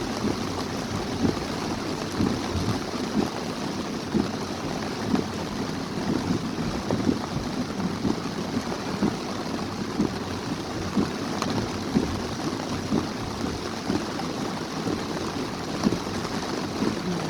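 Heavy rainstorm: a steady hiss of downpour with irregular low thuds throughout.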